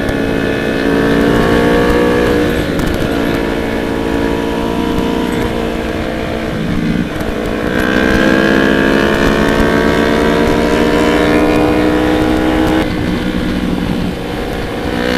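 Motorcycle engine heard from on board while riding, its pitch climbing as it speeds up and dropping back twice, with wind rumble underneath.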